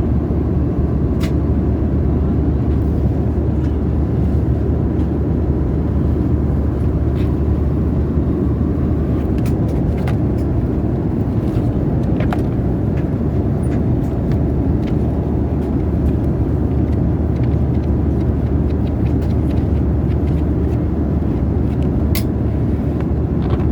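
Steady cabin noise of an Airbus A320 in flight: an even, deep rush of airflow and engine noise at a constant level, with a faint steady hum and a few faint clicks.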